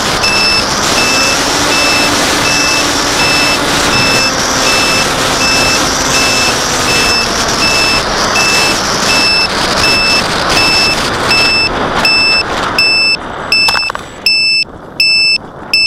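Strong wind buffeting the microphone, with an electronic warning beep repeating steadily about every three-quarters of a second. The wind noise dies away near the end, leaving the beeps clear.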